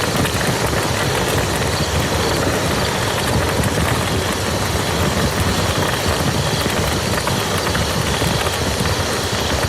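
Steady rain falling on a muddy field, a dense, unbroken patter of drops.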